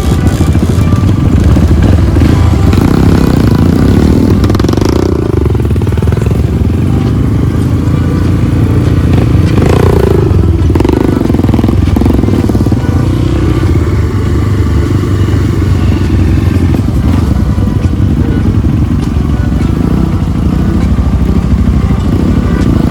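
Trail motorcycle engine running hard under throttle, revving up and easing off several times, with a knock about ten seconds in.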